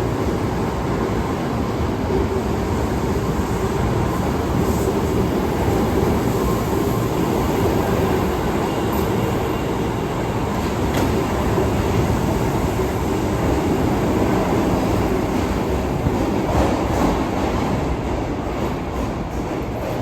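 Osaka Metro 22 series subway car running through a tunnel: a steady rumble of wheels and motors with some rail clatter.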